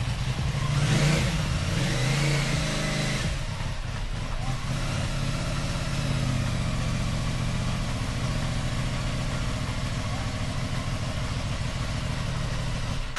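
Aprilia Tuono 660's parallel-twin engine running, louder and uneven for the first three seconds, then settling to a steady idle that cuts off suddenly near the end.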